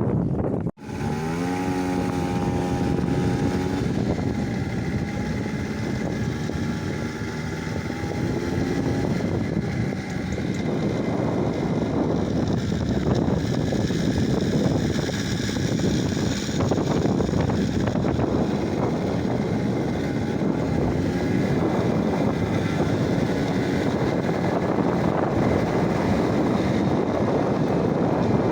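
A vehicle driving, with steady road and wind noise on the microphone. Just after a brief dropout near the start, an engine note rises in pitch for a few seconds.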